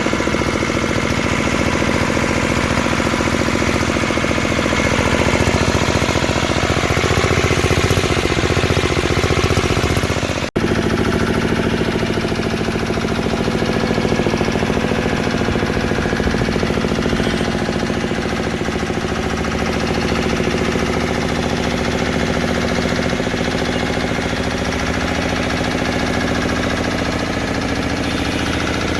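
Field Marshal 5 hp single-cylinder diesel pumpset engine running steadily, each firing stroke giving a rapid knocking beat. The sound drops out for a moment about ten seconds in.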